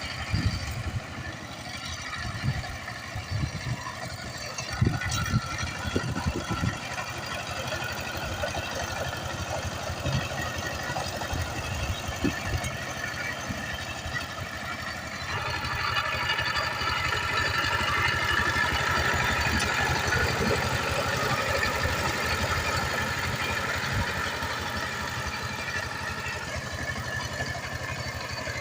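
Power tiller diesel engine running, with irregular heavy thumps in the first several seconds. About halfway through it gets louder and stays so for about ten seconds, then settles back.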